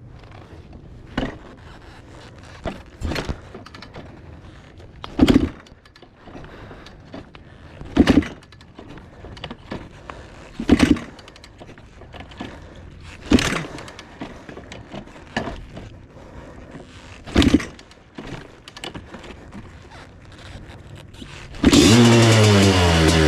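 Kawasaki KX500 dirt bike being kicked over: a string of loud thumps with puffs from its single-cylinder two-stroke engine, about every two to three seconds. Near the end the engine fires and runs loudly through its FMF Gnarly expansion-chamber pipe.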